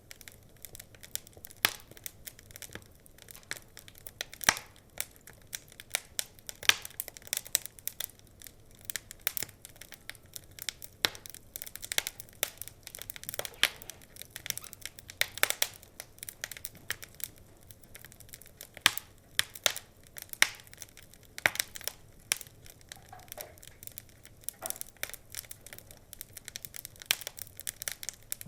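Wood fire crackling, with irregular sharp pops and snaps, some louder than others, over a faint low hiss.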